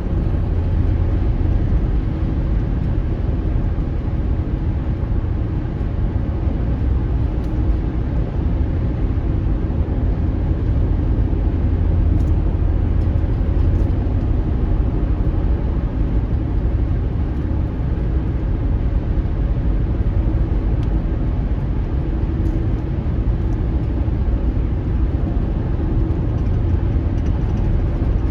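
Steady rumble of a car driving, with engine and tyre noise heard from inside the vehicle and no sudden changes.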